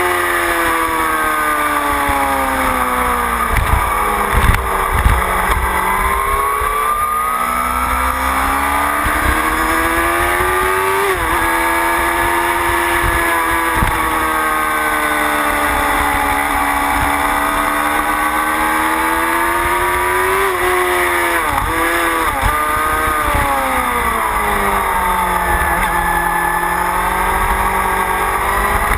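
Motorcycle engine heard from onboard at speed, its pitch climbing and falling repeatedly as it accelerates and slows through the gears, with quick flickers of revs around gear changes near the start and again about three-quarters through, over steady wind and road noise.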